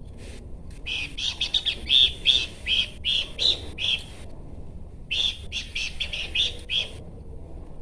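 Horsfield's babbler (pelanduk semak) singing: two runs of quick chirping notes, the first about three seconds long and the second shorter, after a pause.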